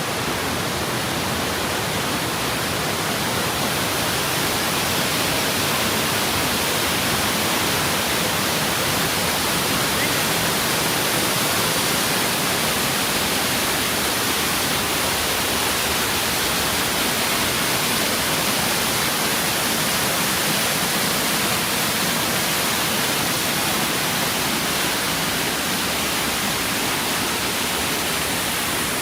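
Steady, loud rush of a waterfall: an even hiss of falling water with no breaks.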